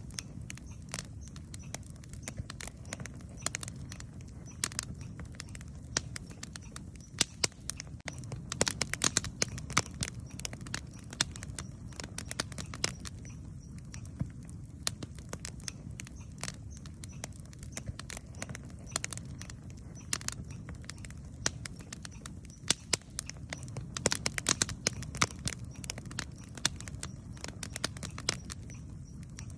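Wood campfire crackling, with irregular sharp pops and snaps, thickest in bursts about a third of the way in and again near the end, over a steady low rush.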